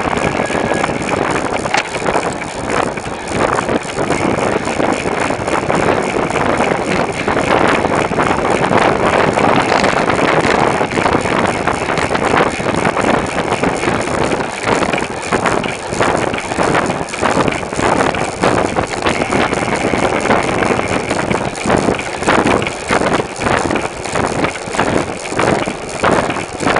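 Wind buffeting the microphone of a camera mounted on a moving bicycle, over steady road noise. Frequent small rattles and knocks come through as the bike rides over bumps.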